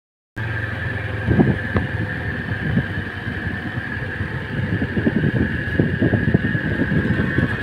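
Motorcycle running along a road, a steady engine hum with irregular wind buffeting and rumble on the rider's microphone and a steady high tone throughout.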